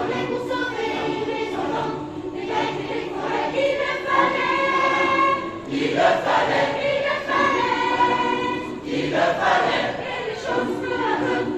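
A choir singing a cappella, several voice parts holding and moving between sustained chords.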